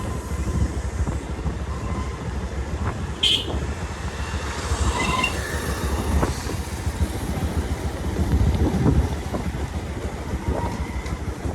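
Motorcycle engine running under way, a steady low rumble with wind noise on the microphone; a brief sharp click about three seconds in.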